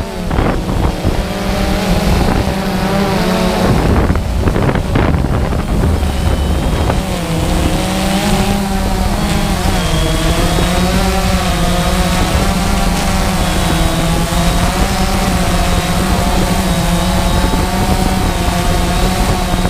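DJI Phantom quadcopter's motors and propellers buzzing steadily, the pitch wavering up and down as it manoeuvres. Wind buffets the microphone in the first few seconds.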